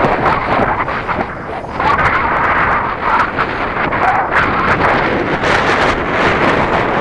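Strong wind buffeting the camera microphone in loud, gusting swells of rumbling noise.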